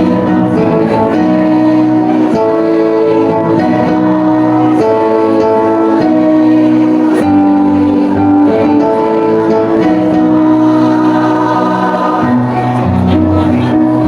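A choir singing with instrumental accompaniment: long held notes that change every second or so at a steady, full level.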